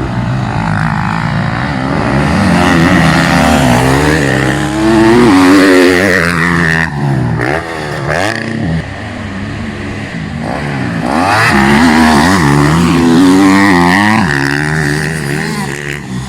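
Motocross bike engines revving, pitch rising and falling again and again as the riders open and close the throttle. It swells loudest twice, about five and twelve seconds in.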